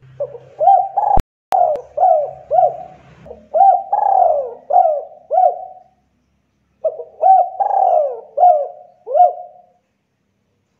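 Spotted dove (tekukur) cooing: a long run of repeated coos, a pause of about a second, then a shorter run. Two sharp clicks cut in a little over a second in.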